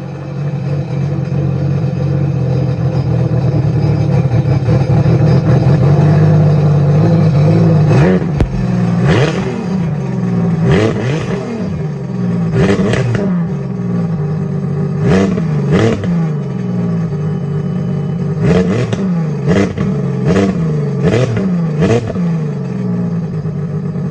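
Sea-Doo RXP-X 300 engine breathing through an aftermarket rear-exit exhaust, idling steadily and then blipped in short, sharp revs again and again from about a third of the way in.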